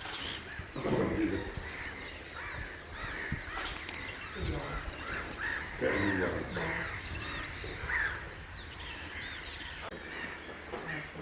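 Several birds calling at once: many short high chirps throughout, with louder, lower harsh calls about a second in and again around five to six seconds.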